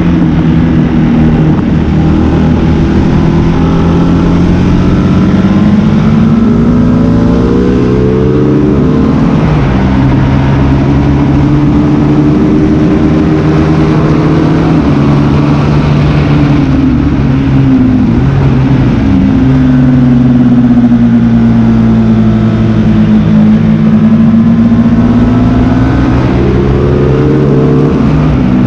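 Sports motorcycle engine ridden hard on a racing circuit, heard from on board: the engine note climbs through the revs and drops back repeatedly with gear changes, dipping low as the bike slows for corners before pulling up again.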